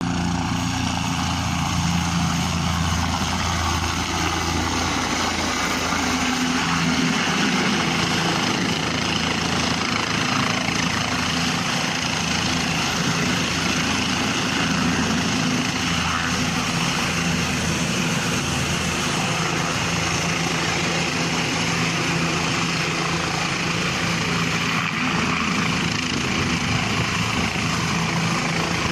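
Firefighting helicopter's rotor and turbine engine running steadily, heard close, while it hovers to reload with water.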